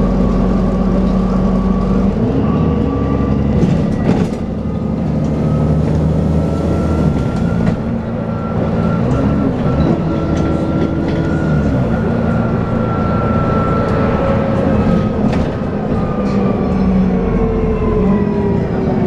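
Dennis Trident 2 double-decker bus running, its engine note shifting through gear changes, with a high vacuum-cleaner-like 'hoover' whine that rises and then falls away near the end. A few short knocks and rattles.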